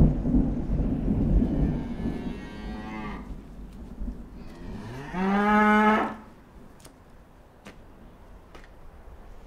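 Cattle mooing: a fainter moo about two seconds in, then a loud, long moo about five seconds in that rises in pitch and then holds.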